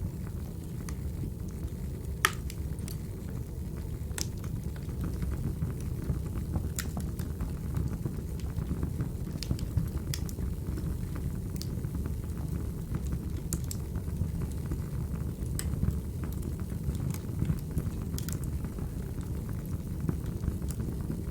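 Crackling wood fire: a steady low roar of burning logs with sharp, irregular pops every second or two.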